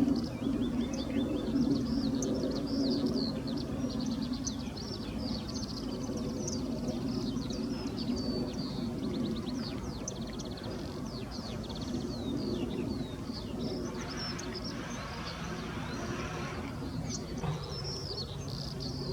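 Mixed birdsong: many short chirps, trills and whistles from several small birds, over a steady low hum. A soft hiss rises and fades from about fourteen to seventeen seconds in.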